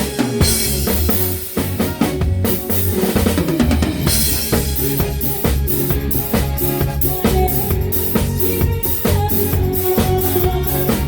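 Live band playing, led by a drum kit keeping a steady beat on kick and snare, with bass and other instruments holding notes underneath.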